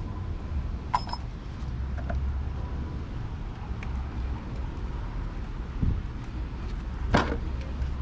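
Metal clinks from hand tools, a short ringing click about a second in and a louder knock about seven seconds in, over a steady low rumble.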